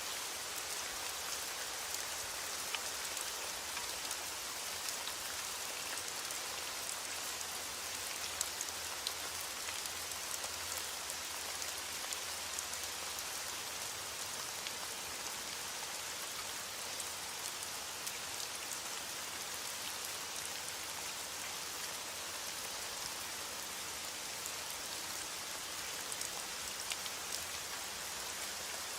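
Steady rain falling, an even hiss with scattered sharp ticks of individual drops. No thunder is heard.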